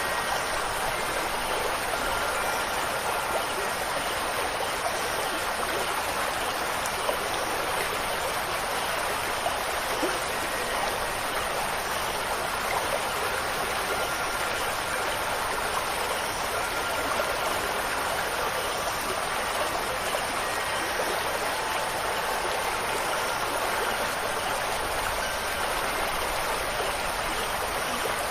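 Steady rushing water, running without a break, with a few faint wind-chime tones ringing now and then.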